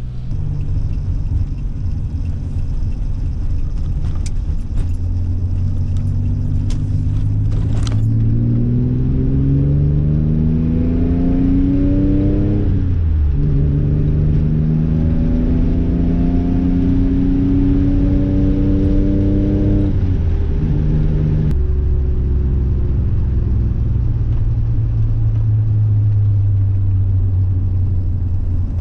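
Nissan 300ZX engine under way: a steady low rumble, then the engine note climbing through the revs, dropping sharply at a gear change about halfway through, climbing again through the next gear, and easing back to a steady cruise near the end.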